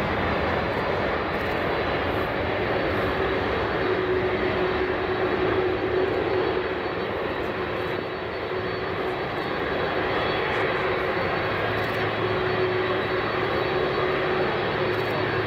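Boeing 747-400 airliner's four jet engines at takeoff power: a steady, loud jet noise with a steady hum tone running through it.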